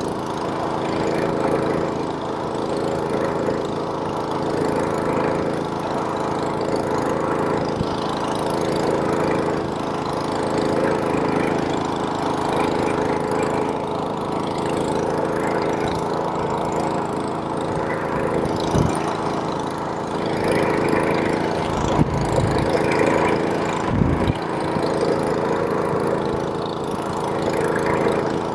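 Gasoline snowblower's small engine running steadily while clearing snow, with a few brief low thumps in the second half.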